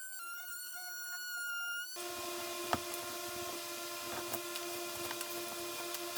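Instrumental music with held notes, cut off abruptly about two seconds in. It gives way to a steady rasping scrape with scattered clicks: a blade cutting through drywall.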